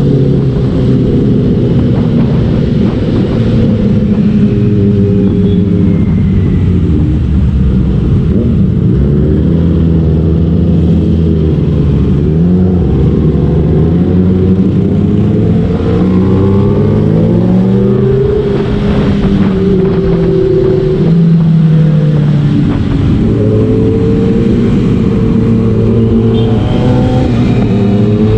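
Motorcycle engines running and revving, with several bikes heard together; the engine pitch climbs and drops again and again as throttle and gears change.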